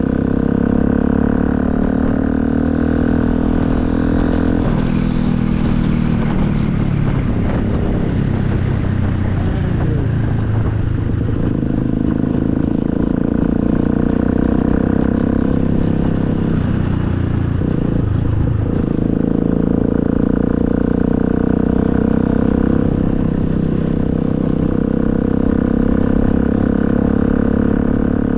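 Motorcycle engine running while riding. The engine note falls away for several seconds after about five seconds and then builds back up, with another brief dip and pickup about two-thirds of the way through.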